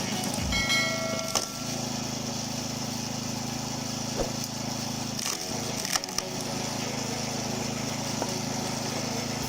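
Gas engine of a log splitter running steadily while wood cracks and snaps as it is split: a brief squeal about a second in, a sharp crack near a second and a half, and more cracks around five to six seconds in.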